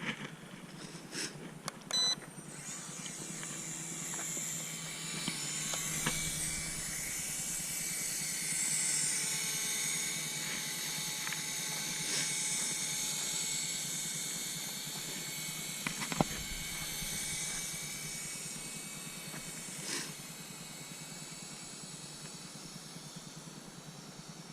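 Syma S107H-E toy coaxial helicopter's small electric rotor motors whining in flight, the pitch wavering as the throttle changes and fading toward the end. A short sharp sound about two seconds in and a click about sixteen seconds in.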